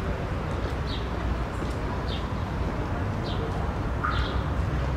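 A small bird chirping, a short high chirp about once a second, over a steady low outdoor background rumble.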